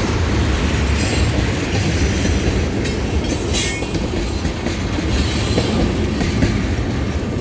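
Missouri & Northern Arkansas freight train rolling past: a steady rumble of railcar wheels on the rails, with a brief high wheel squeal about three and a half seconds in.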